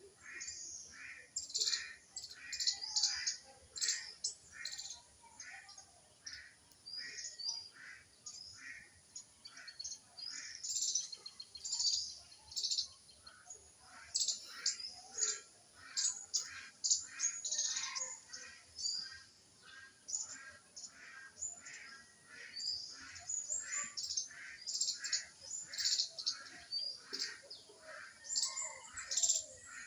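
Birds calling without a break: many short, high chirps over a lower call that repeats about twice a second.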